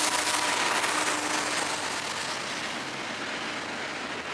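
Freight train of double-stack container well cars rolling past at speed: a steady rush of steel wheels on rail. It eases off a little over the first few seconds, with a faint steady hum underneath at first.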